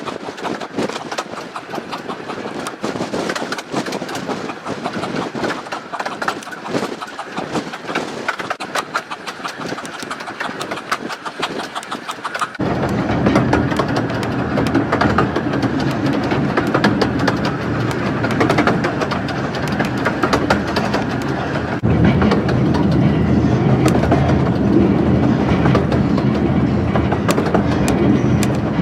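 15-inch gauge miniature railway train running, its wheels clicking rapidly over the rail joints. About twelve seconds in, a louder, steady running sound with a low hum starts suddenly and grows louder again near twenty-two seconds.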